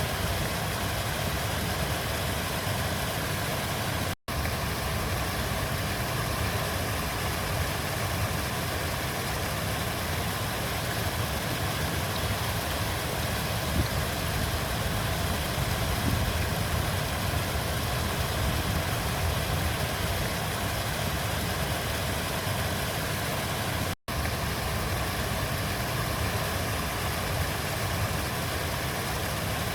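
Flowing river: a steady rush of water with a low rumble underneath, broken twice by a split-second dropout to silence, about four seconds in and again twenty seconds later.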